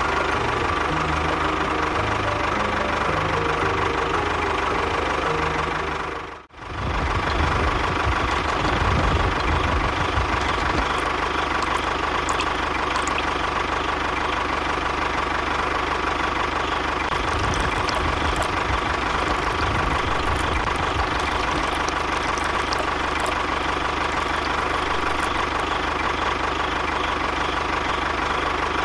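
A motor or engine running steadily with a constant whine, cut off briefly about six and a half seconds in and then running on unchanged.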